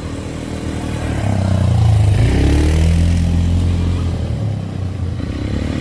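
Quad bike (ATV) engine running under throttle, growing louder from about a second in and easing off slightly near the end.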